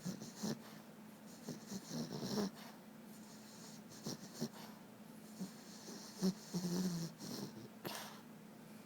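Sleeping dog snoring: a run of uneven breaths, some with a low rattle and some breathy. The longest, loudest snore comes about two-thirds of the way through.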